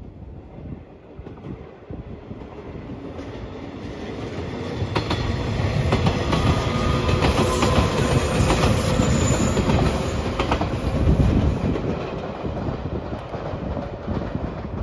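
A 115 series electric train passing close by. It grows louder as it approaches, is loudest through the middle with its wheels clacking over rail joints, then fades as it moves away.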